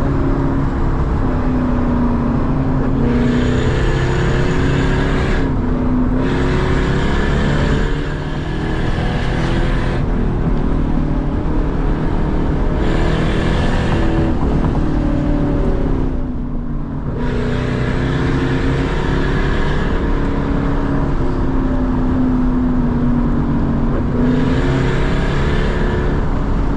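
Lexus SC400's 4.0-litre V8 through a loud exhaust, pulling hard under throttle, its pitch climbing and falling over and over as the car accelerates and shifts. The engine note dips briefly twice, about eight and sixteen seconds in, as the throttle comes off.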